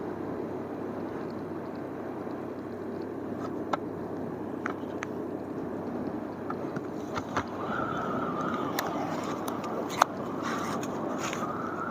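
Motorcycle riding along, engine and wind-and-road noise running steadily, with a higher whine coming in about two-thirds of the way through. Sharp clicks and knocks break in now and then, loudest one about ten seconds in.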